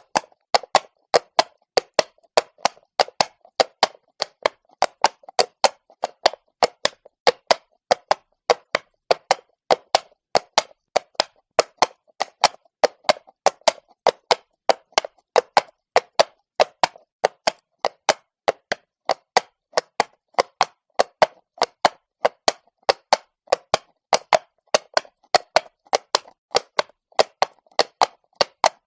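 Horse's hooves clip-clopping at a walk on cobblestone, a steady rhythm of about three sharp hoof strikes a second.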